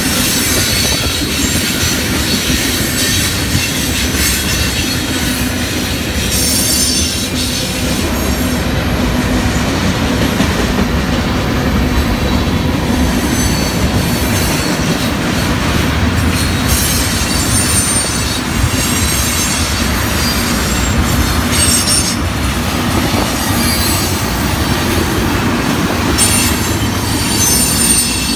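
A train rolling past steadily for the whole stretch, with high wheel squeals coming and going over the rumble.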